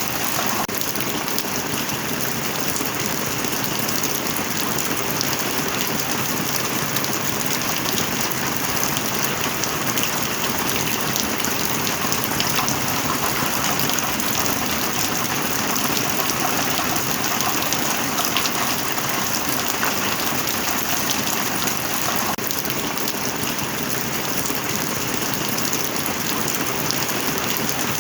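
Heavy rain falling steadily, a dense unbroken patter of drops with no thunder.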